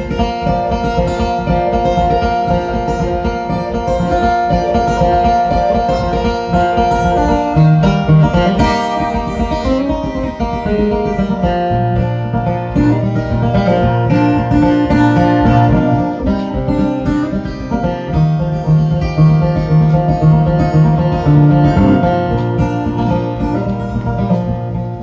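Acoustic guitar playing an instrumental passage: a picked melody over low bass notes.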